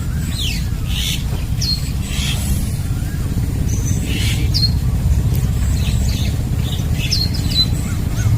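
Birds calling in short, repeated, downward-sliding chirps and squawks, over a steady low rumble.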